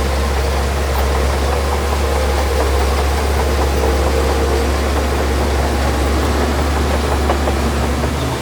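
Heavy earthmoving machine's diesel engine running steadily, a deep even hum under a wash of mechanical noise.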